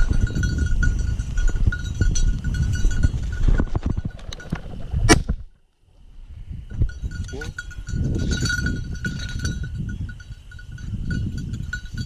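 A bird dog's collar bell jingling steadily as the dog works the field, over a rumble of wind and movement. A single sharp bang about five seconds in, followed by a brief moment of silence.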